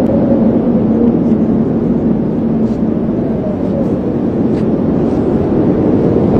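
Loud, steady roar of strong storm wind, with a faint steady hum underneath.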